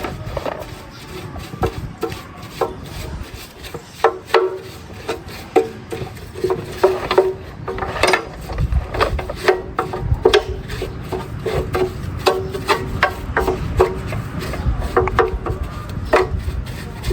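Hand-tool scraping and rubbing with many irregular sharp clicks and knocks, some ringing briefly.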